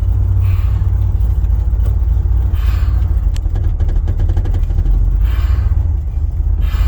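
Ford F-150 pickup's engine running steadily with a heavy low rumble, running on its newly replaced fuel pump.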